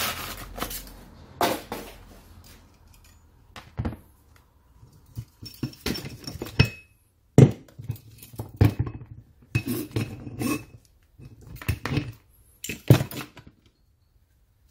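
Metal tools and parts clinking and knocking as they are handled, in irregular clusters of sharp knocks with short quiet gaps between.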